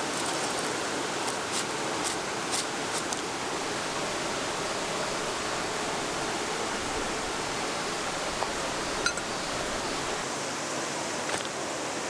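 Mountain stream rushing in a steady, even hiss, with a few light clicks early on and near the end.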